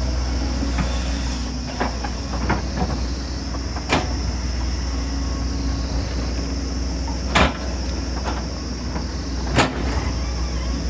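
Excavator's diesel engine running steadily, with sharp knocks of the working machine every couple of seconds.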